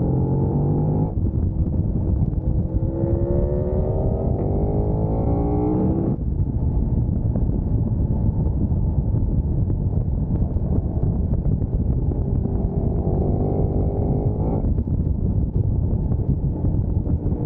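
Sport motorcycle engine accelerating hard twice, its pitch rising from about a second in and again from about twelve seconds in, each pull cut off abruptly as the throttle closes or a gear changes. A steady low wind rumble runs underneath.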